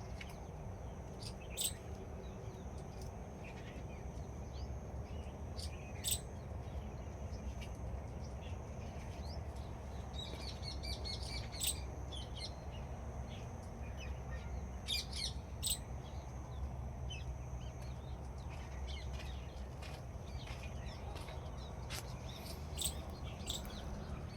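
Wild birds calling: short, sharp, high chirps every few seconds, with a few quicker runs of notes partway through, over a steady low outdoor rumble.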